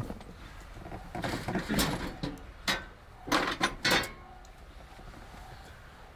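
A few knocks and clatters, bunched between about one and four seconds in, then quieter.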